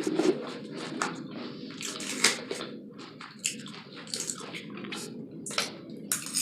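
Close-miked chewing of taco salad: wet mouth sounds with irregular crunchy clicks and crackles from biting into the food.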